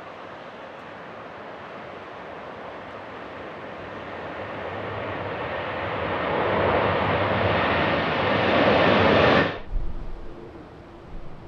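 Jet airliner's engines growing steadily louder as it comes past, a broad roar that cuts off suddenly about nine and a half seconds in.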